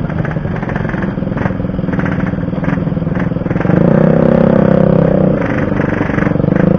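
Yamaha RX-King 135 cc single-cylinder two-stroke engine running at low speed, the throttle opened up a little past halfway for about a second and a half, then again near the end, with a few light clicks early on.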